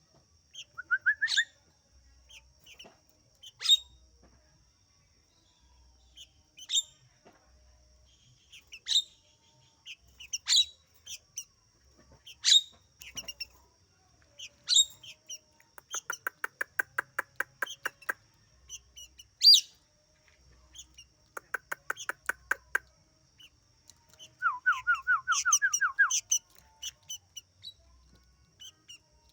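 Songbirds calling: sharp chirps every second or two, a fast rattling trill about 16 seconds in and another about 21 seconds in, and a quick run of rising notes near the end. A faint steady high whine runs underneath.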